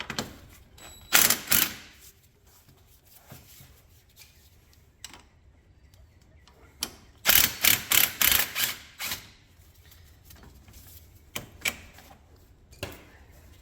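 Hand tools working on an ATV's front steering knuckle and steering arm: sharp metallic clicks and clanks, a pair a little after one second and a quick run of about eight about seven seconds in.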